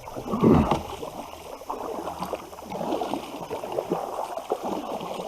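Water splashing and gurgling around a kayak, with one short, louder sound about half a second in.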